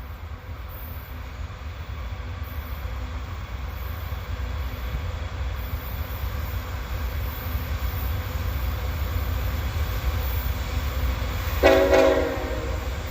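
Freight train approaching with a low rumble that slowly builds, then the locomotive's air horn sounds near the end, one chord held for about a second and a half.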